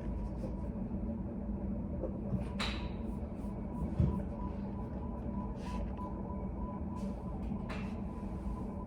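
Study cafe room ambience: a steady low hum with a faint steady tone, a few soft rustles and clicks scattered through, and one dull thump about four seconds in.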